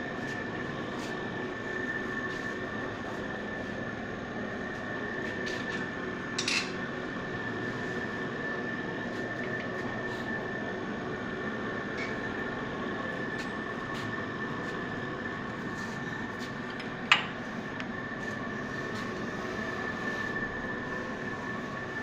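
Steady mechanical hum with a high, even whine, broken by two sharp metallic clinks, a light one about six seconds in and a louder one past the middle.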